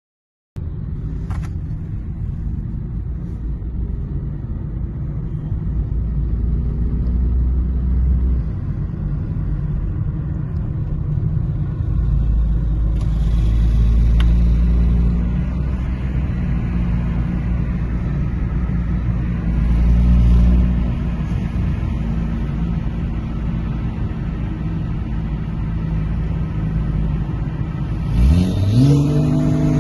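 Porsche 911 Turbo S twin-turbo flat-six idling with a steady low exhaust rumble that swells slightly now and then. Near the end it revs up, the pitch climbing quickly.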